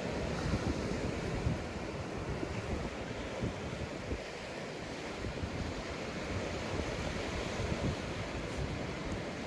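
Sea waves breaking and washing up a sandy beach in a steady wash, with some wind rumble on the microphone.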